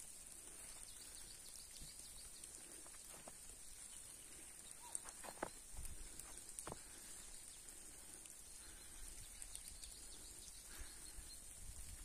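Faint distant birds calling in a quiet forest: a few short chirps, clearest between about five and seven seconds in, over a steady faint high hiss.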